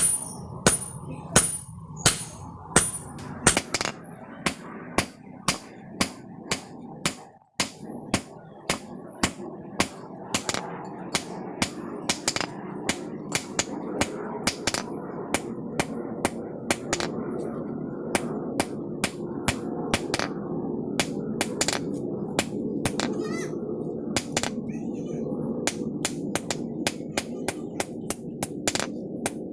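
Hand hammer striking a steel saw blade in a steady rhythm, about two sharp ringing blows a second, quickening near the end, over a murmur of background voices.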